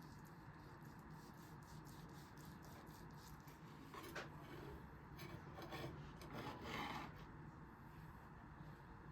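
Faint rubbing and scraping, with many light ticks at first and then a few louder scrapes past the middle.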